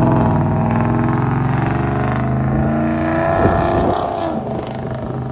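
Chevy Silverado V8 running through a dual-tip stainless steel exhaust, a steady exhaust note that changes pitch about halfway through and eases off near the end.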